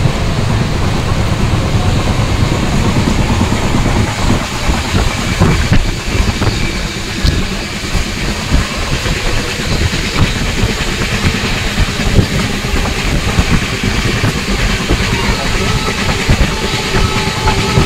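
Steady rumble and rattle of a moving Indian Railways express train heard from inside a coach, the wheels running on the rails with scattered sharp clicks.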